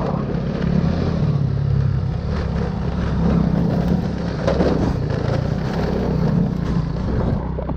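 Motorbike engine running steadily while riding, a low hum under a continuous rush of wind and road noise.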